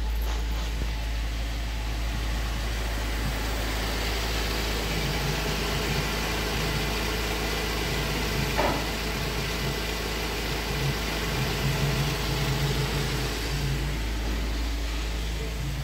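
2005 Cadillac CTS's 3.6-litre V6 engine idling steadily, with one brief click about halfway through.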